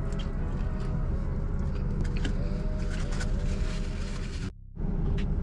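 Steady low rumble of a car cabin with the engine running, with small clicks and rustles from eating. The sound drops out briefly near the end.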